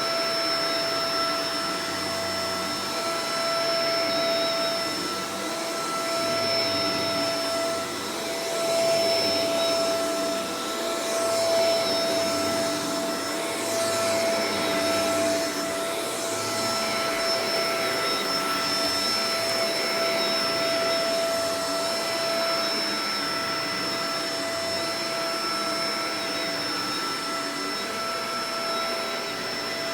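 Shark Professional Powered Lift-Away DLX (NV586) vacuum cleaner running continuously: a steady motor whine over rushing air, with the loudness wavering slightly as it works.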